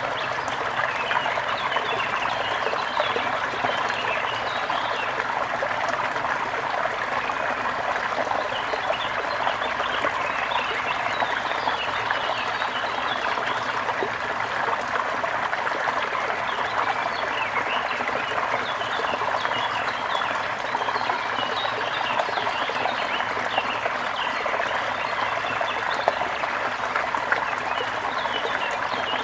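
A small brook babbling and trickling steadily over stones.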